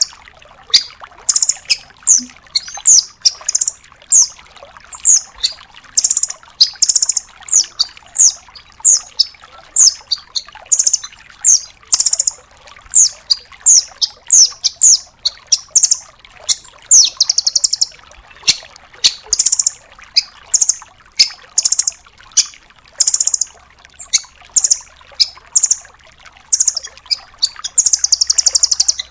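Nuthatch (rambatan) singing: rapid bursts of short, sharp high-pitched notes and brief buzzy trills, one burst after another with short gaps, the loud 'tembakan' song used to tutor cage songbirds.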